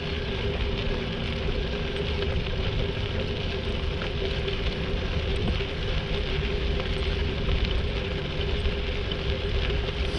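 Bicycle tyres rolling steadily over a crushed-stone trail, an even crunching rush mixed with wind on the microphone.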